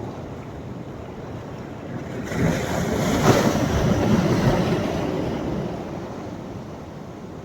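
Sea waves on the shore: a steady surf hiss, with one wave breaking about two seconds in that swells to its loudest over the next two seconds and then washes out and fades.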